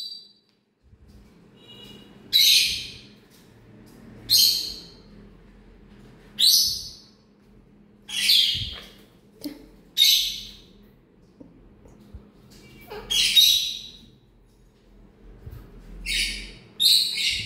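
Parrot giving about eight loud, harsh, high-pitched screeching calls, each about half a second long, repeated roughly every two seconds, with two calls close together near the end.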